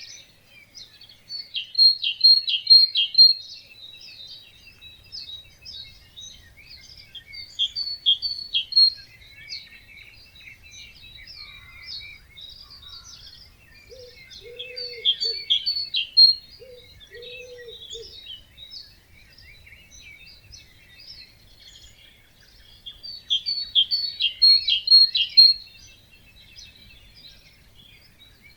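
A chorus of wetland songbirds singing at dawn. One bird repeats a loud, rapid song phrase four times, about every seven seconds, over many softer chirps and trills. Two short, low calls come in the middle.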